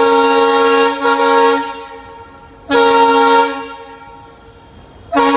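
WAP-1M electric locomotive's air horn sounding in repeated loud blasts: one long blast with a brief break about a second in, a shorter blast near the middle, and another beginning near the end.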